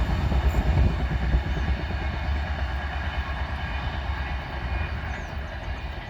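Express train rolling past on the track, its rumble slowly fading as it moves away.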